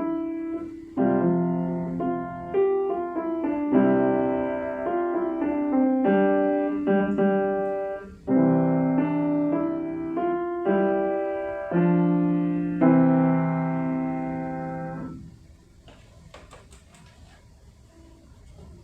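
Piano playing a slow piece in struck chords, each one fading before the next, ending on a held final chord that stops about fifteen seconds in. A few faint clicks follow.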